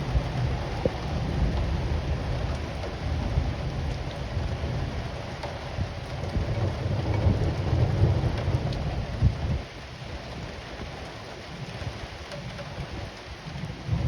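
Thunder rumbling over steady heavy rain. The low rumble swells in the middle and dies away about two-thirds of the way through, leaving the rain hiss.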